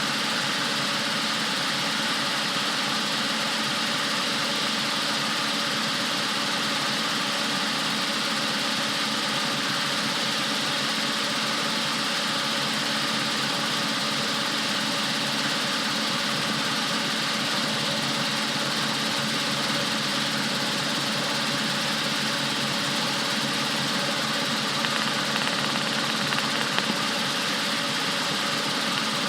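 Rotorway Exec 162F helicopter's flat-four engine and rotor running steadily, an even, unbroken drone.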